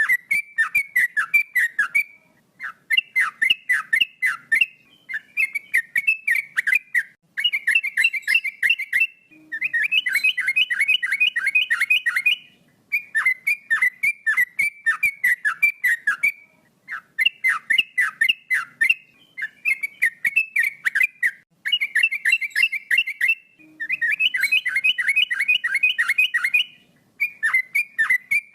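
Male yellow-vented bulbul (trucuk) singing in full voice: rapid runs of short, clear whistled notes, each dropping in pitch, in phrases of two to three seconds with brief pauses between.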